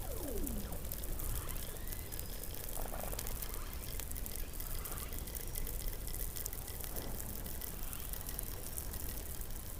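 Underwater animal calls picked up by a hydrophone beneath the Antarctic ice: a clear call sweeping downward in pitch right at the start, then a few fainter short calls and downward sweeps, over a steady hiss with faint crackling clicks.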